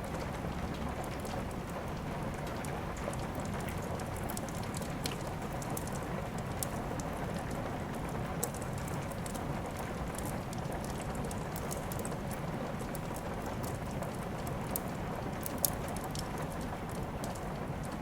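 Steady rain mixed with the scattered crackle and pops of a wood fire, with one sharper pop standing out near the end.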